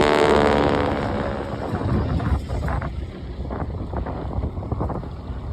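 Propeller aircraft engine passing close, loudest at the start and fading away over the first couple of seconds, followed by wind buffeting the microphone.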